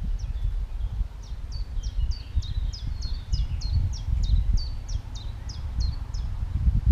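A small songbird singing a long run of quick, high, down-slurred notes, about two to three a second, over a loud, uneven low rumble of wind on the microphone.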